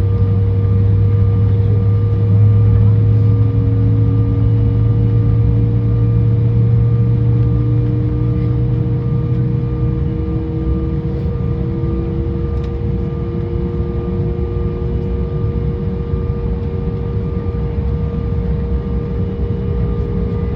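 Cabin noise inside an Embraer 175 on the ground before takeoff: its GE CF34 turbofan engines and air systems running as a steady drone with a constant hum. A low rumble fades out about halfway through, while a fainter whine slowly rises in pitch.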